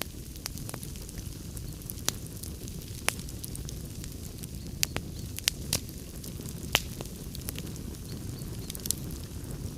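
Wood fire crackling in a fireplace: a steady low rumble and hiss of burning logs, with sharp pops and snaps about once a second.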